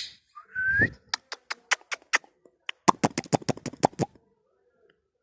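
Indian ringneck parrot giving a short rising call, then making two runs of sharp rapid clicks, several a second.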